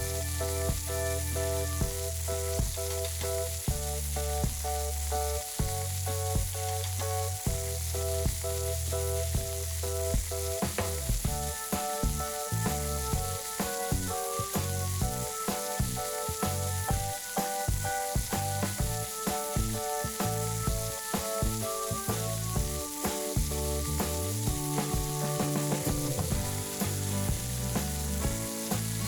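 Food sizzling and frying in a pan, a steady crackling hiss, under background music with a bass line and a steady beat.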